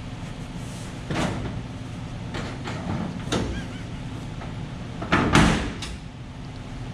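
Stiff front door of a Techno CNC Patriot machine's enclosure being forced shut: a few knocks, then the loudest clatter and bang about five seconds in.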